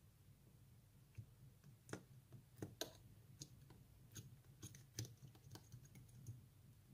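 Slime being mixed and pressed by hand, giving a scatter of small sharp clicks and pops from the sticky slime. The loudest of them come between about two and five seconds in.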